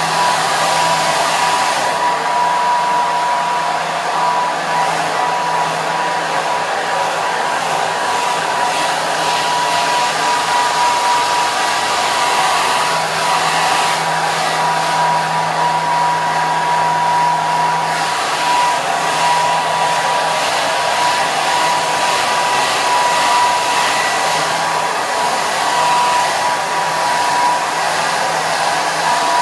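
Hair dryer running continuously: a steady rush of blown air with a constant whine near 1 kHz and a faint low motor hum, unchanging.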